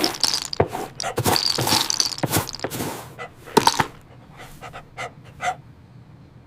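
A dog panting and snuffling in quick, irregular breaths, dense for the first few seconds and then thinning out and fading.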